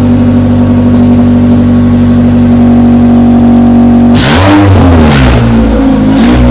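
Honda B16A2 VTEC inline four-cylinder running with only the XForce header and no exhaust beyond it, an open straight pipe: a loud steady idle, then about four seconds in the throttle is blipped, the pitch rising and falling, and a second blip follows near the end.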